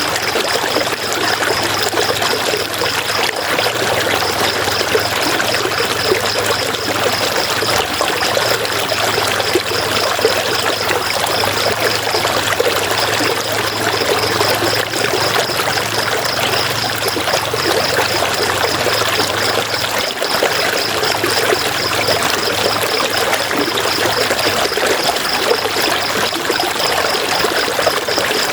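River water flowing steadily with a trickling rush, and a high, rapidly pulsing trill running along above it.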